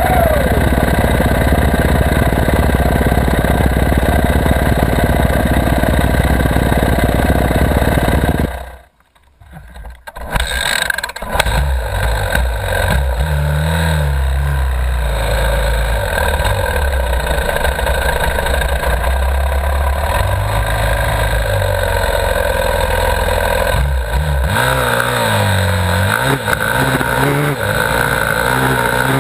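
Dirt bike engine running hard under load, its pitch rising and falling with the throttle. The sound cuts out abruptly for a second or so about nine seconds in, then comes back.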